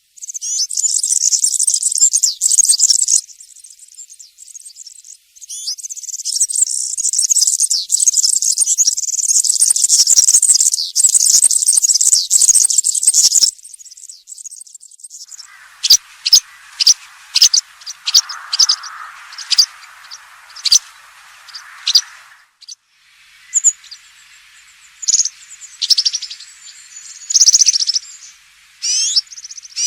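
European serin singing its fast, high-pitched jingling song in two long runs, the first breaking off after about three seconds and the second lasting about eight seconds. After a short pause, the second half holds shorter high chirps and song fragments over a lower, steady hiss.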